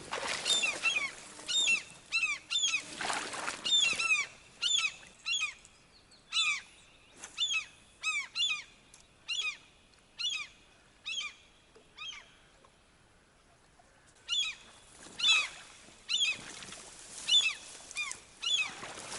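A bird calling over and over in short, downward-sweeping calls, about one or two a second, falling silent for a couple of seconds near the middle before starting again. Two brief whooshes are heard near the start.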